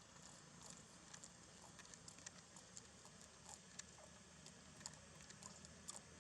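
Near silence with faint, irregular light clicks and taps, a few a second, over a low steady hum.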